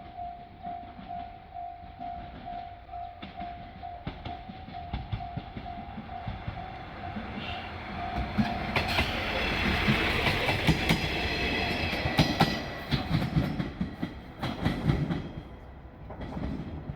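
A Japanese level-crossing warning bell rings in a steady pulse, about two strokes a second. About eight seconds in, a JR Shikoku diesel railcar passes over the crossing, and its wheels clack over the rail joints.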